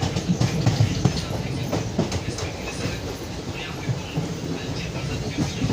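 Train passing along the track: a steady rumble with a rapid clatter of wheels on the rails.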